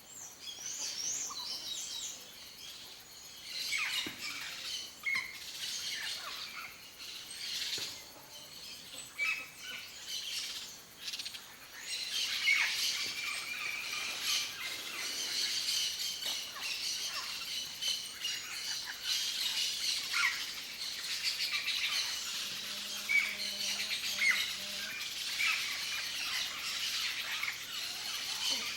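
Yellow-faced parrot calling in the wild: repeated short squawks and chirps, irregularly spaced, over a busy natural background that thickens about halfway through.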